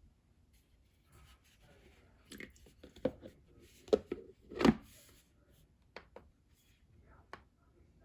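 A few separate knocks and handling sounds of objects being moved, the loudest about four and a half seconds in, followed by a couple of light clicks.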